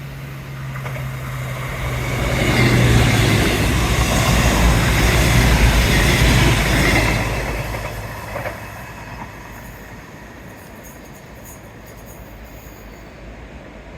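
Diesel train passing close by on the seawall railway line: a low engine hum and wheel-on-rail noise swell to their loudest for about five seconds, then fade away.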